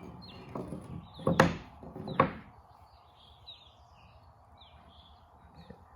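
Pieces of wood knocking together as they are handled on a work surface, four or so knocks in the first two and a half seconds, the loudest two near the middle. Faint bird chirps in the background after that.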